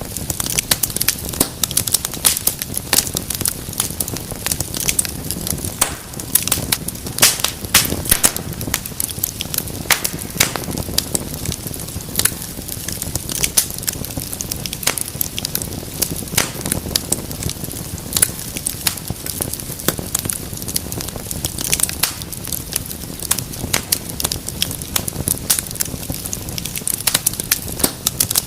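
Wood fire burning in a fireplace: frequent sharp, irregular crackles and pops over a low, steady rumble of flames.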